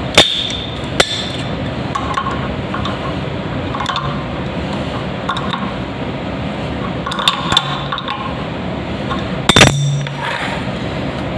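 Sharp clinks and taps of hand tools against plumbing fittings while a toilet supply line and fill valve are fitted, a few scattered strikes with the loudest near the end, over a steady background hiss.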